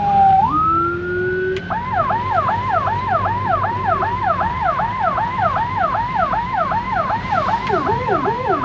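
Ambulance siren: a slow falling wail that jumps up and holds briefly, then switches about 2 seconds in to a fast yelp of falling notes, about three a second. Near the end a second, lower-pitched siren joins in, over a steady low hum of vehicle engines and road noise.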